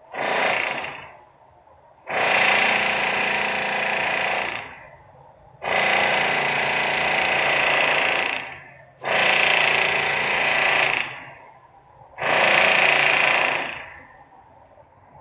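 Loud industrial noise: a rattling power tool running in five bursts of one to three seconds each, with short pauses between them.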